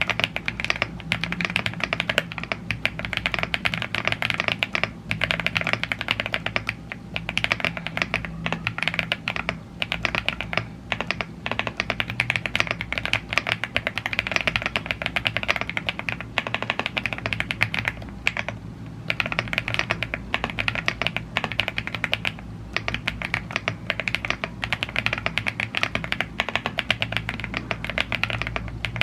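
Typing on a YUNZII AL75 gasket-mounted aluminium mechanical keyboard with Blue Grey tactile switches and double-shot PBT keycaps: a fast, dense run of key clicks with a few brief pauses.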